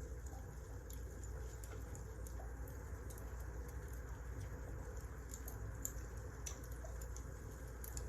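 Wood fire crackling: irregular small sharp pops and snaps over a steady low rumble of burning logs.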